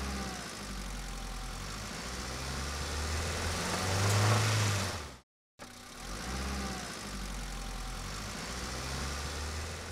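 Fire truck engine sound effect running steadily, swelling louder about four seconds in and then cutting off. After a short gap the same engine sound starts again and runs on.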